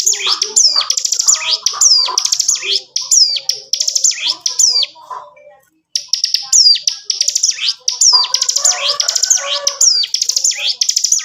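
Ciblek gunung singing continuously in rapid, high, drill-like bursts of fast repeated chirps and down-sweeping notes, the 'ngebren' style. There is a brief pause about halfway through before the song resumes.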